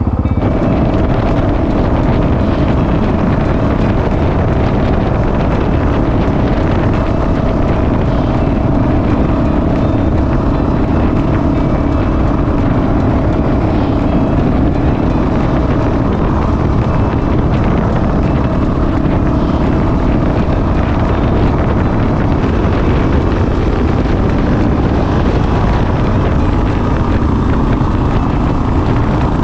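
Honda CRF450RL's single-cylinder engine, fitted with a Yoshimura exhaust, running at a steady pitch on the move, with wind rushing over the microphone.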